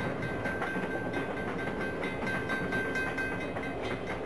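Diesel locomotive rolling along the track: a steady rumble of wheels on rail with faint regular clicking and a thin high-pitched whine that cuts in and out.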